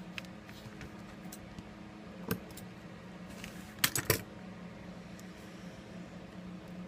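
Small sharp clicks and taps of tools and phone parts handled on a work surface, with a quick cluster of three or four louder metallic clicks about four seconds in. A steady low hum runs underneath.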